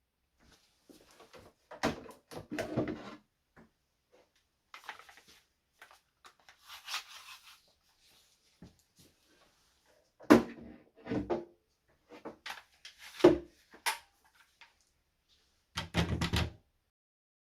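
Wooden cabinet parts being handled: a series of separate knocks and clunks, the sharpest about ten and thirteen seconds in, with a brief scraping rub between them.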